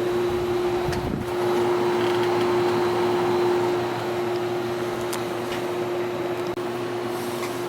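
Whirlpool window air conditioner running with its compressor and fan on: a steady hum with one strong constant tone over even airflow noise, and a brief low bump about a second in. The hissing from the unit shows it still holds refrigerant.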